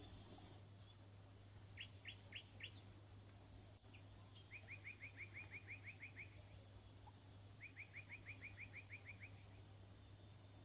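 Faint songbird chirping: four separate high chirps, then two quick trills of about ten chirps each, at roughly six a second. A low steady hum sits beneath.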